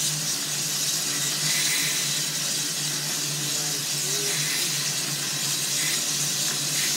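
Steady rushing hiss of steam escaping from a Russell steam traction engine being fired up, with a steady low hum underneath.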